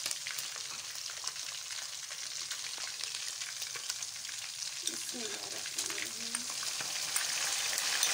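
Chicken pieces deep-frying in hot oil in a karahi: a steady crackling sizzle of many fine pops.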